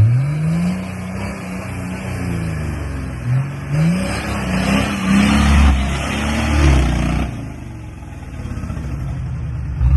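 Nissan Patrol Y60's 2.8 diesel engine revving up and down several times, loudest about halfway through, then settling back to a steadier, lower run near the end. It is the engine the owner reports as knocking and failed.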